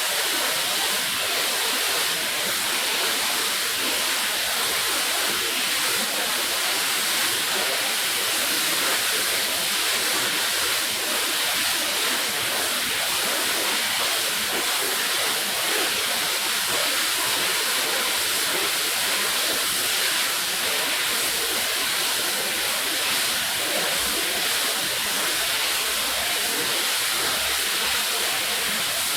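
A steady hiss of water spraying onto a rug as it is rinsed.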